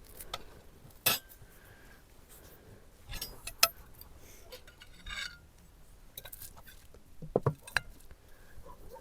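Cutlery and plates clinking during a meal: a few scattered sharp clinks, the loudest about a second in, another around three and a half seconds, and a quick pair near the end.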